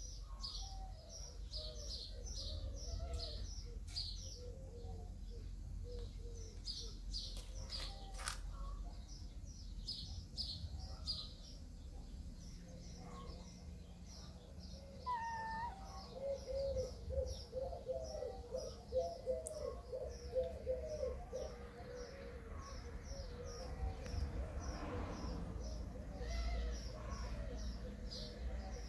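Small birds chirping steadily, short high notes about two or three a second. Past the middle, a lower wavering bird call joins for several seconds.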